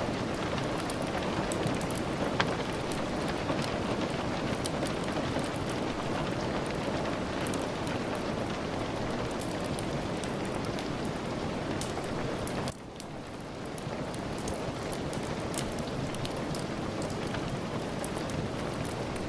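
Steady, dense rainfall with scattered sharp ticks and pops among it. About two-thirds of the way through, the sound drops suddenly and then swells back to its earlier level.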